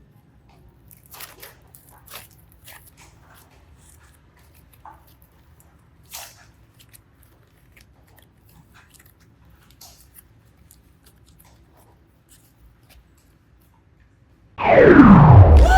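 Faint, scattered crackling and crunching from handling soft material, then near the end a loud cartoon sound effect that slides steeply down in pitch.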